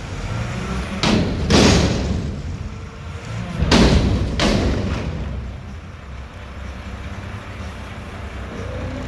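Front-loading garbage truck's diesel engine running, with four loud bangs in the first five seconds, then a steady engine rumble.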